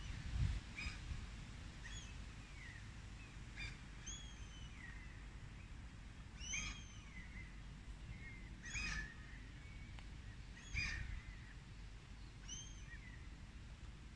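Wild birds calling outdoors: short arched and falling chirps every couple of seconds, over a low rumble of wind on the microphone that is strongest near the start.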